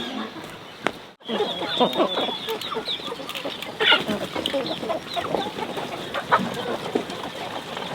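A flock of chickens clucking, with many short calls and high peeping notes, after a brief break about a second in.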